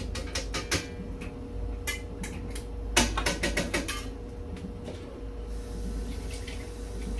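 Kitchenware being handled: a quick run of sharp knocks and clinks over the first four seconds, then quieter, with a steady tone underneath.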